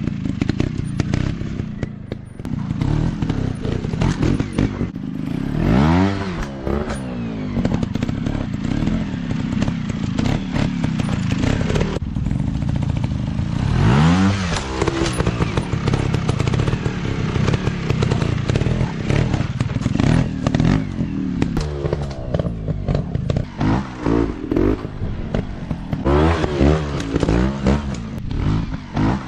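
Dirt bike engine revving up and down under riding, with strong throttle rises about six and fourteen seconds in and a run of short, quick blips near the end.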